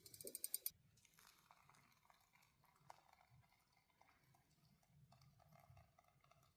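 Near silence, with a brief run of fast, evenly spaced clicks at the very start and a few faint soft ticks after it.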